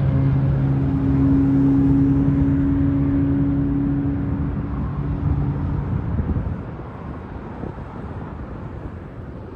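Radio-controlled crawler truck's motor and gearbox running with a steady hum, fading away about six seconds in.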